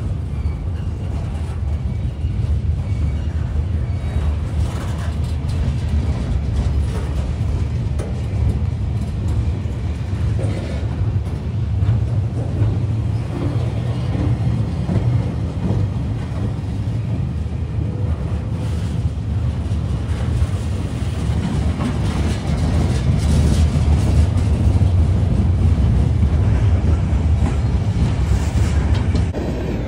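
Empty freight flatcars rolling past close by: a steady low rumble of steel wheels on rail, with scattered clicks and clanks, growing louder in the last several seconds.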